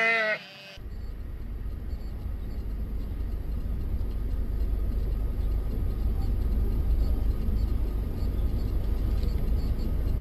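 Steady low rumble of a car on the move, engine and road noise, slowly growing louder. It starts abruptly under a second in, just after a short pitched call cuts off.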